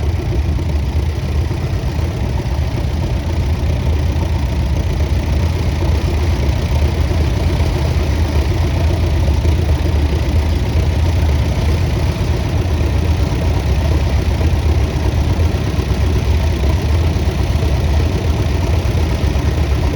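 International 384 diesel tractor engine running steadily at low speed, a continuous low engine note.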